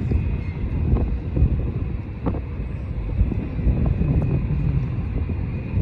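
Jet airliner engines rumbling with a faint steady whine, mixed with gusty wind buffeting the phone's microphone.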